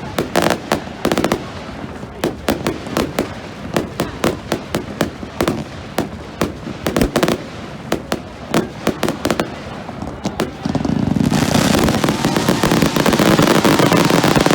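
Fireworks going off: a rapid, irregular run of sharp bangs and crackles. About eleven seconds in, a dense, continuous wash of crackling sets in and is louder, with a few wavering whistles through it.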